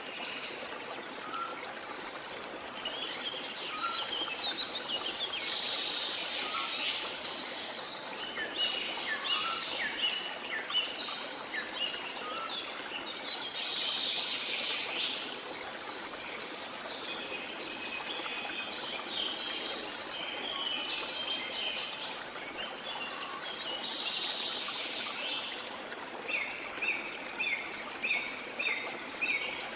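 Several birds singing and calling over the steady rush of falling water. Near the end one bird repeats a short note about twice a second.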